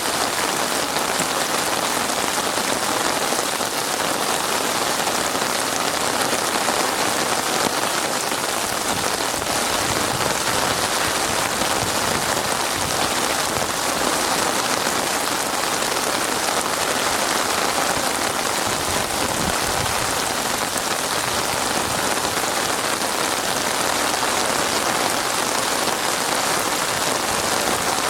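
Heavy rain falling steadily, a dense even hiss of drops striking a surface with no breaks or changes.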